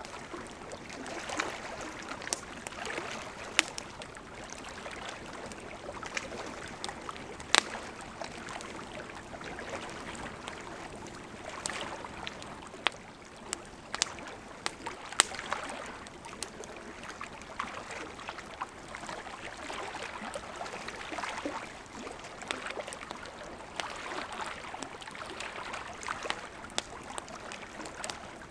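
Wood campfire burning: a steady rushing crackle from the flames with irregular sharp pops and snaps of burning wood, a few of them loud.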